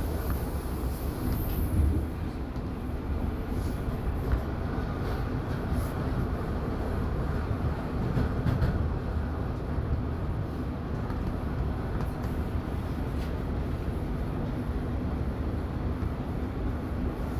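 Toronto subway Line 1 train heard from inside the car, running with a steady low rumble of wheels and motors. A few faint clicks come through the rumble.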